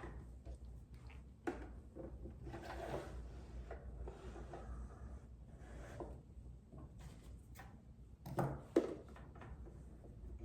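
Scattered light clicks, rustles and knocks as fabric and the sewing machine are handled, with a louder knock about eight and a half seconds in, over a low steady hum. The machine is not stitching.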